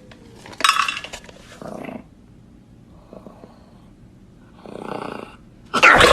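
A pet animal making a few short noisy breathy sounds with pauses between them. A louder sound with a gliding pitch starts just before the end.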